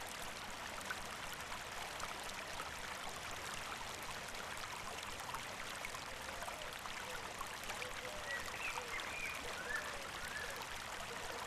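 A stream running steadily, with a few short bird chirps over it from about halfway through.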